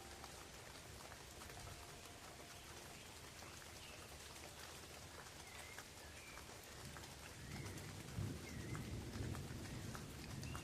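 Steady rain falling on forest leaves, a soft hiss with many small drop ticks. A few faint short chirps sound now and then, and a low, uneven rumble comes in about seven seconds in.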